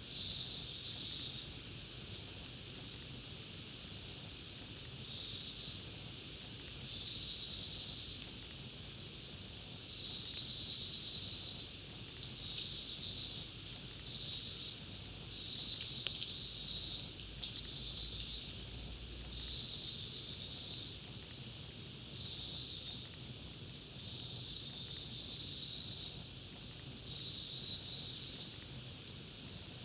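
Campfire crackling, with scattered sharp pops over a steady hiss. Throughout, a high buzzing call comes in short bursts of about a second, repeating every second or two.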